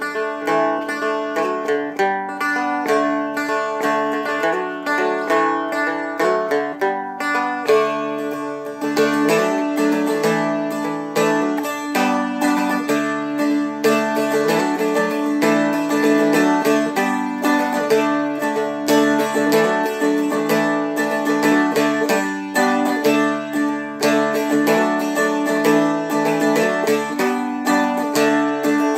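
Seagull Merlin M4, a four-string dulcimer-style instrument, flatpicked in a quick melody over a steady ringing drone from the open strings.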